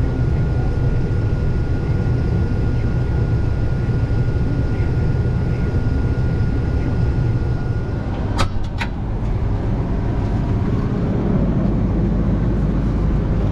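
Case IH 2388 combine's diesel engine and threshing machinery running steadily while shelling corn. A thin steady whine runs over the drone and stops about two-thirds of the way through, just before two sharp clicks.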